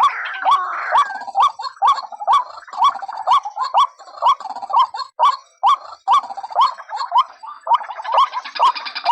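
White-breasted waterhen calls from a lure recording: a hooked 'kru-ak' note repeated about twice a second, each beginning with a sharp click. From about eight seconds in, a harsher, denser chatter overlaps the calls.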